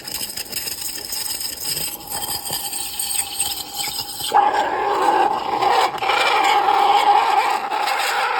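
A steady hiss that suddenly grows louder about four seconds in, with a squealing tone held over it.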